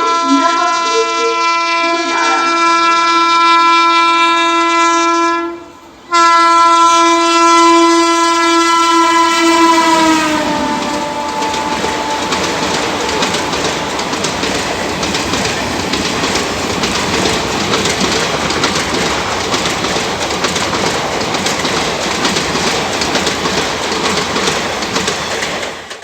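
Indian Railways locomotive horn sounding two long blasts with a brief break between them; the second blast slides down in pitch as the locomotive passes. Then the train's coaches rush past with wheels clattering over the rail joints, until the sound cuts off suddenly.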